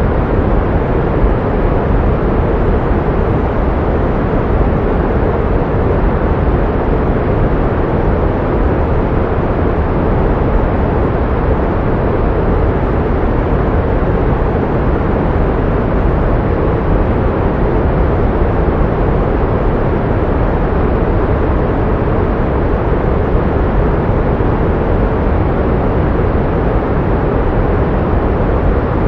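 Steady synthetic pink noise: an even, unbroken hiss weighted toward the low end.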